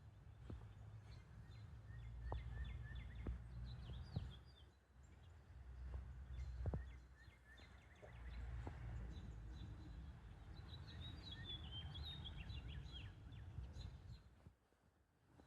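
Small birds chirping, with a quick twittering run about two-thirds of the way through, over a low outdoor rumble and a few faint clicks.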